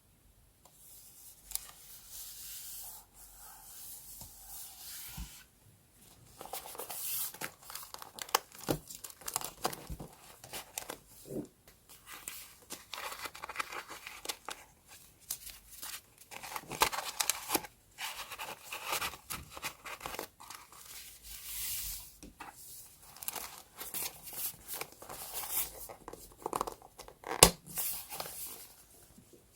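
Paper being torn and handled in short irregular strokes, with rustling and small clicks, one sharp tap near the end.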